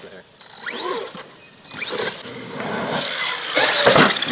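Electric RC crawler truck driving over rough ground, its motor and drivetrain whining up and down in pitch with the throttle. The sound grows louder after about two seconds, with a sharp knock near the end.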